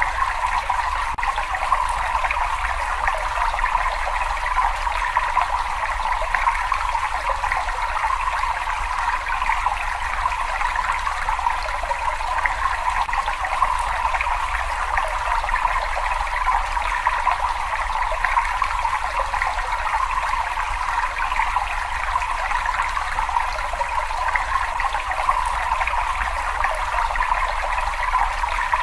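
Water trickling and flowing steadily, an even rushing with no breaks or changes.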